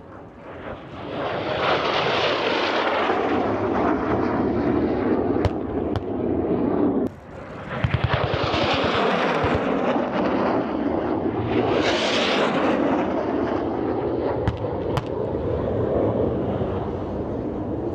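Jet aircraft flying past: a loud rushing jet noise that swells and fades, dropping out briefly about seven seconds in and then swelling again twice.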